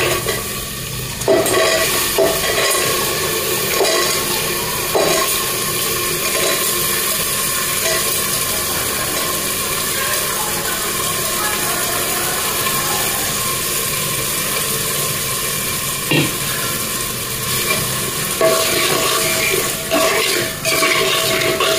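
Wet black-eyed peas sizzling steadily as they hit hot oil and masala in an aluminium pressure cooker, with a few knocks of the steel bowl and stirring spoon against the cooker.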